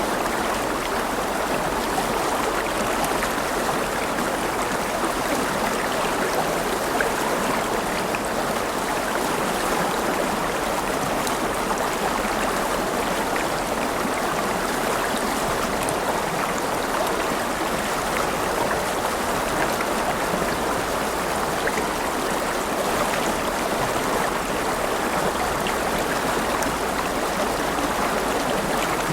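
River water flowing and splashing steadily over stones, a continuous even rush with fine trickling and splashing detail.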